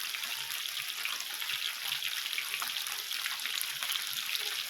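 Chicken kebabs sizzling and frying in hot fat on an indoor grill, a steady crackling hiss with many small spitting pops of oil.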